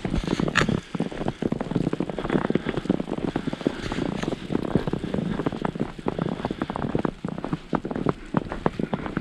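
Dense, irregular crunching and crackling of boots walking through fresh snow.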